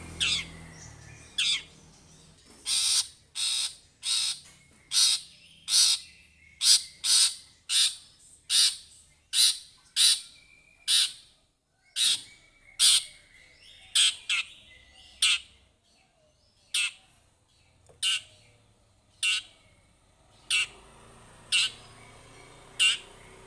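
Long-tailed shrike (cendet) calling a long run of short, harsh, scratchy notes, roughly one to two a second. A faint thin whistle sounds between some of the notes.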